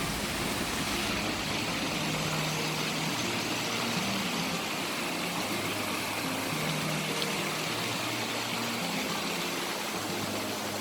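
A steady rushing noise at an even level, with low notes of background music underneath.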